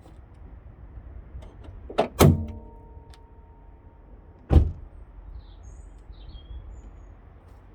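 Two sharp knocks about two seconds in, the second a metallic clank that rings for about a second and a half, then a single heavy thump a couple of seconds later, with a few faint bird chirps after it.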